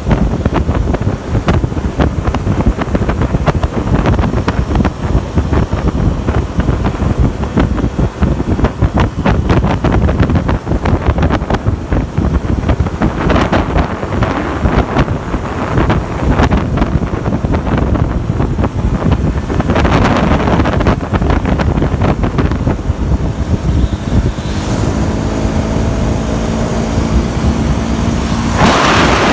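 Wind buffeting the microphone on a moving motorbike, over the motorbike engine's running. About 24 s in the wind drops and the engine's steady hum comes through clearly.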